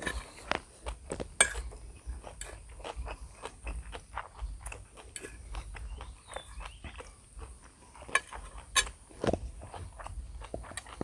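Close-miked eating of instant noodles: a run of irregular chewing and mouth clicks, a few of them sharper than the rest.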